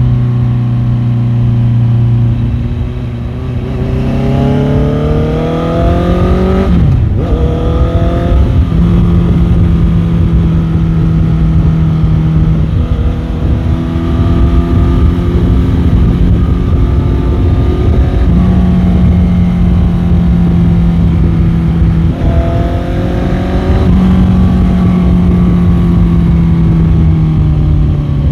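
Motorcycle engine heard from the rider's onboard microphone: it revs up, shifts up about seven seconds in, then cruises at a steady pitch, with another gear change near the end. A constant low wind rumble runs underneath.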